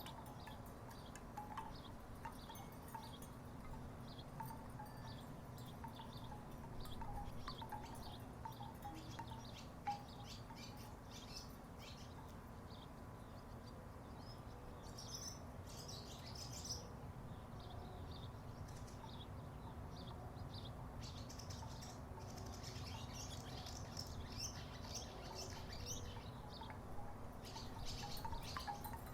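Wooden tiki wind chimes knocking together in the breeze, in irregular clusters of light clacks that come and go, over a steady low background rumble.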